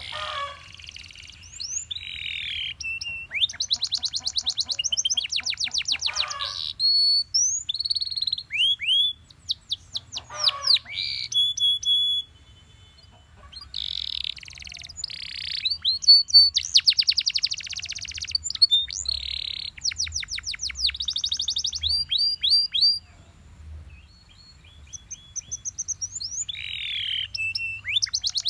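Canary singing a long, varied song of fast trills and rolls of rapidly repeated high notes, broken into phrases with short pauses between them.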